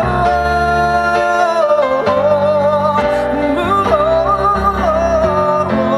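Live band playing a slow pop ballad, with piano, bass and drums under a lead voice holding long, wavering notes.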